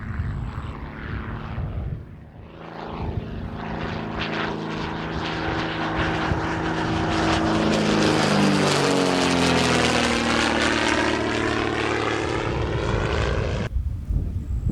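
Pitts Special aerobatic biplane's piston engine and propeller in a pass, growing louder as it comes in and dropping in pitch as it goes by, about nine seconds in. The sound changes abruptly near the end.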